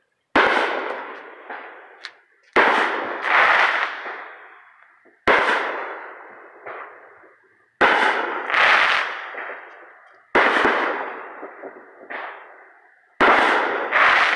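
Aerial fireworks bursting: six loud bangs about two to three seconds apart. Each has a noisy tail that dies away over about two seconds, often with a second burst inside it.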